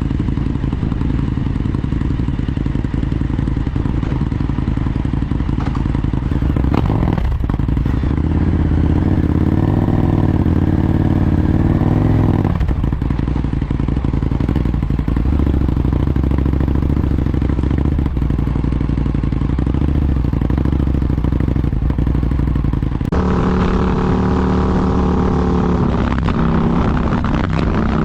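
Indian FTR1200 motorcycle's V-twin engine running hard while ridden on a track, its pitch rising and falling as it accelerates and shifts, with a clear run of rising revs in the last few seconds.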